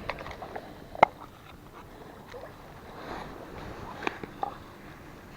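Scattered light clicks and knocks of gear being handled and set down, the sharpest about a second in, with a faint rustle in between.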